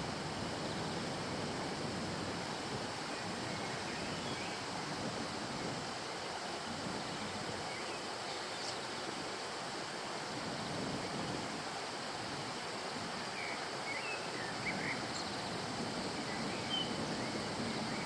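Steady rushing of water in the Sillaro, a river, with a few short, faint high chirps over it.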